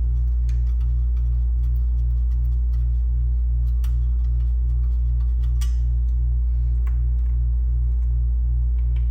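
Loud steady low electrical hum with a throb about three times a second, under scattered faint clicks and taps of screws and small parts being handled.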